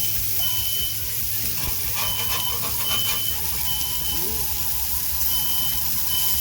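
Smoke alarm beeping in groups of three with a pause between groups, set off by smoke from the cooking, over the steady sizzle of beef patties frying on a hot griddle.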